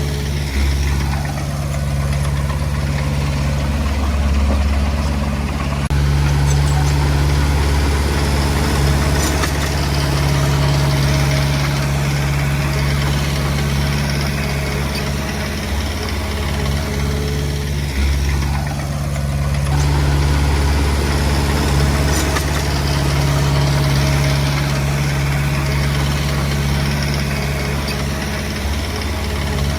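Komatsu D20P bulldozer's diesel engine running steadily, its note easing off briefly about two-thirds of the way through and then picking up again.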